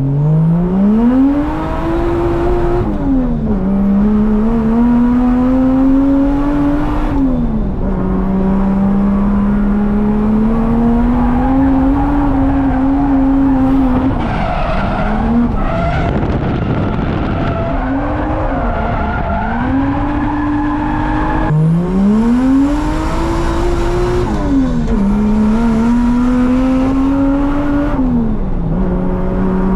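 Drift car engine revving hard, its pitch climbing and dropping back again and again as the car is driven through a run of slides, with tyres squealing and skidding in between.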